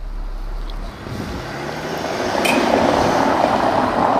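Mercedes-Benz GLS 400d's inline-six diesel and road noise heard inside the cabin as the SUV pulls away, the sound rising from about a second in, with a sharp click about halfway.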